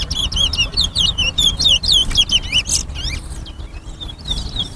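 Towa-towa finches (chestnut-bellied seed finches) singing: fast, continuous runs of high whistled chirps and sweeping notes, easing briefly in the middle before picking up again.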